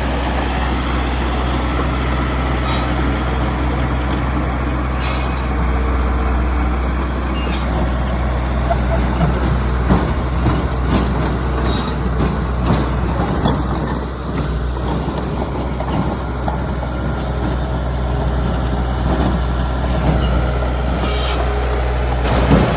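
Heavy diesel earthmoving machinery running steadily with a deep drone, with metal clanks now and then and a few short air hisses.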